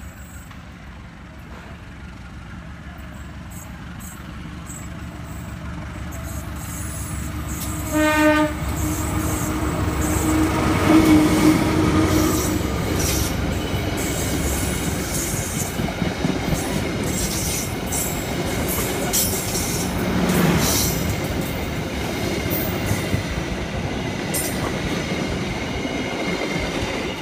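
A train approaching and sounding a short horn blast about eight seconds in, then passing close by with a loud steady rumble and repeated clacks of the wheels over the rails.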